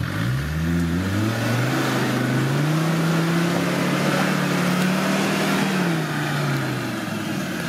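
Off-road 4x4's engine revving up and held at high revs for a few seconds as it drives off under power, then easing off about six seconds in.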